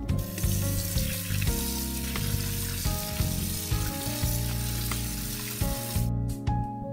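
Kitchen tap running into a bowl in a steel sink while hands rinse tomatoes and a chili in the water; the rush of water cuts off suddenly about six seconds in. Background music plays underneath.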